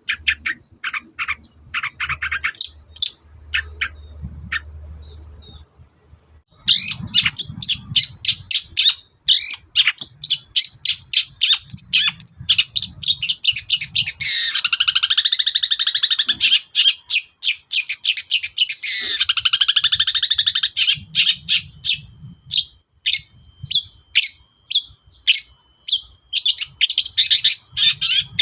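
Long-tailed shrike (cendet) singing a fast, varied song of high chirps. After a brief pause about six seconds in, it runs on in a dense stream of rapid notes, with two harsh, rasping stretches near the middle.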